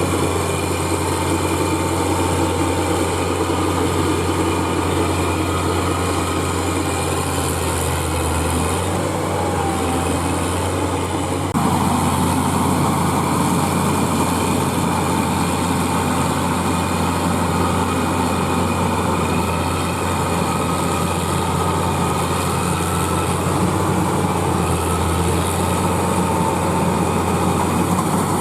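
Claas Crop Tiger 30 combine harvester running steadily while harvesting paddy, its engine a strong low hum. It gets suddenly louder about a third of the way through.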